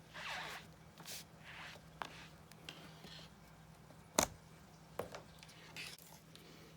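Soft swishing as a clear stamp is wiped clean with a chamois, then a few light clicks and taps of handled stamping tools; the sharpest click comes about four seconds in. A steady low hum runs underneath.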